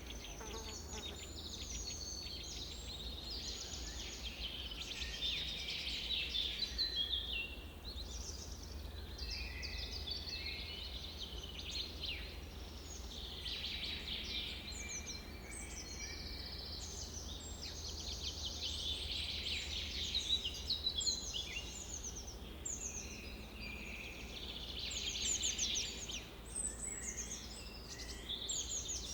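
Several songbirds singing and chirping over one another in a dense, continuous chorus of quick trills and tweets, over a steady low rumble.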